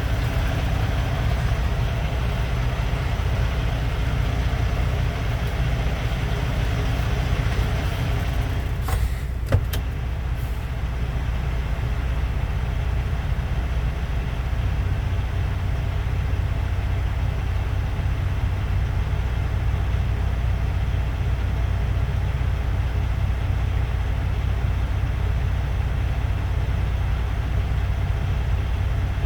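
Semi-truck diesel engine idling with a steady low rumble, and a single sharp knock about nine and a half seconds in.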